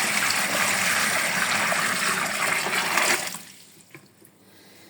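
A steady rush of water, for example water pouring or gushing into a container, that stops about three seconds in.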